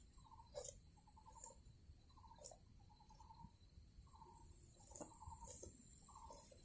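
A bird calling faintly over and over: short notes about once a second, some of them quick trills, over a steady high insect drone, with a few faint clicks.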